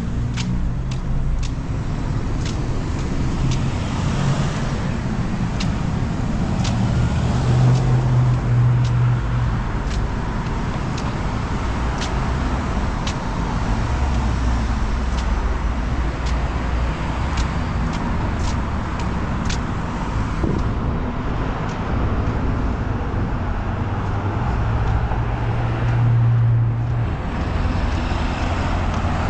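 Motor vehicle and road noise: a steady low engine rumble that swells a little twice, with frequent light clicks and rattles.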